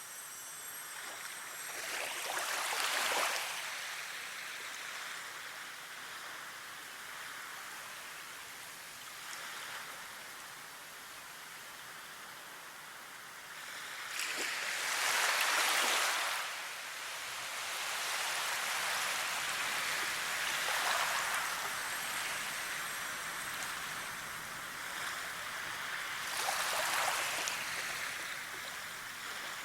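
Water noise: a steady rush with three louder swells about twelve seconds apart, as of waves washing in on a shore.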